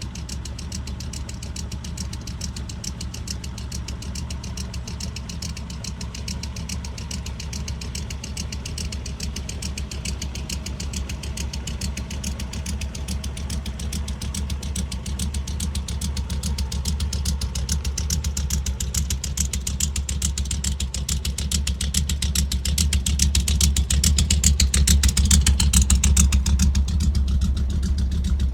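A 1965 Ford Mustang's V8 idling with a steady exhaust rumble, growing gradually louder through the second half.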